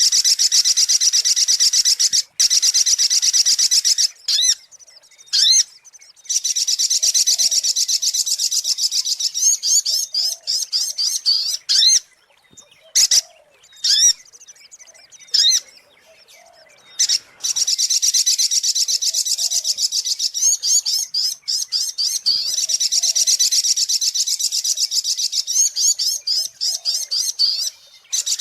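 Sogok ontong (little spiderhunter) calling: long, fast series of high-pitched chirps repeated in rapid succession. The series breaks into short fragments with pauses a few seconds in and again around the middle, then runs on unbroken for the last third.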